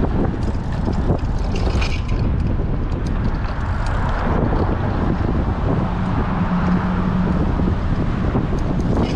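Strong wind buffeting a GoPro's microphone on a moving bicycle, a steady rushing noise.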